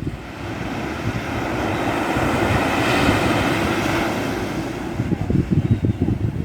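Wind buffeting the microphone, with gusts near the start and again in the last second or so, over a rush of noise that swells to a peak about halfway through and then fades.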